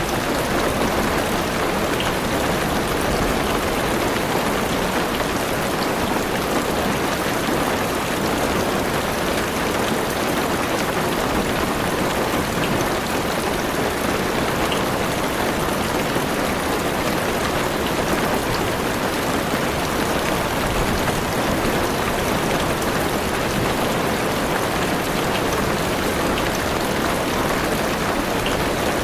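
Heavy rain falling steadily on a car's roof and windows, heard from inside the car, with an occasional single drop tick standing out.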